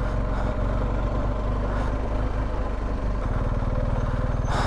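BMW R1250GS boxer-twin engine running steadily with an even low firing pulse, which changes slightly about three seconds in.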